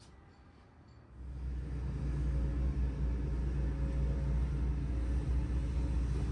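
A machine's motor starts about a second in and runs steadily with a low hum, then cuts off near the end.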